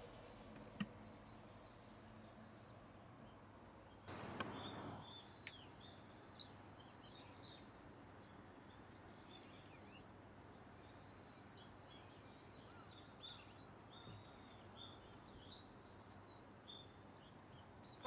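A bird calling a single short, high chirp over and over, about once a second, starting about four seconds in, over a faint steady outdoor hiss. A brief rush of noise comes just before the first chirps.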